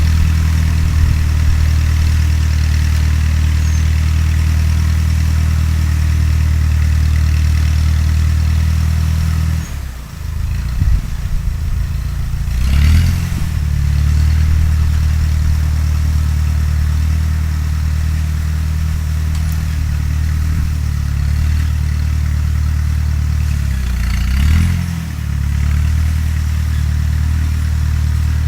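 Fiat 352c tractor engine running steadily. Its speed sags and picks back up, about ten seconds in and twice more later on.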